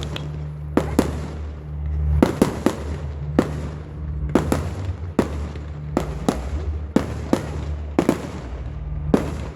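Fireworks going off: an irregular series of sharp bangs, about two a second and sometimes in quick pairs, over a steady low hum.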